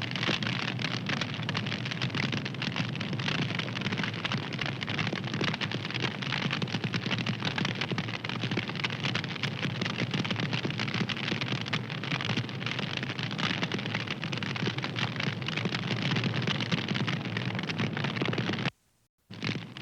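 Wood fire crackling, a dense steady stream of small pops and crackles over a soft hiss. The sound cuts out for about half a second near the end, then resumes.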